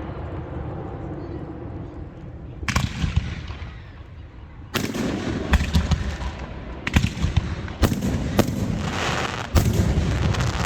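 Fireworks going off: a single sharp bang about three seconds in, then a quick run of sharp bangs and crackling from about five seconds on.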